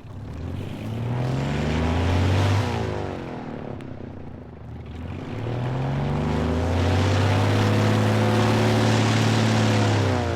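Piston engine of a propeller aircraft being run up: it revs up, throttles back sharply about two and a half seconds in, then revs up again and holds a steady high pitch before easing off near the end.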